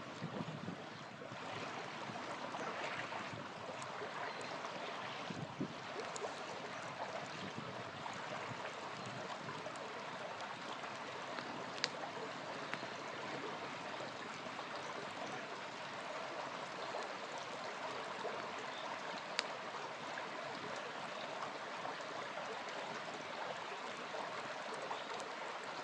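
Small river flowing steadily, with a few sharp pops from a campfire burning beside it, the clearest about halfway through and again near three-quarters of the way.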